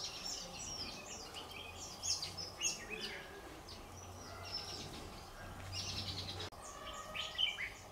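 Several birds chirping and calling, a busy mix of short high chirps and quick trills.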